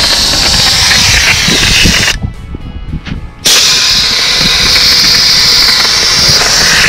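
Air hissing steadily out of vehicle tyres as they are let down, two tyres at once. The hiss breaks off for about a second a little over two seconds in, then resumes.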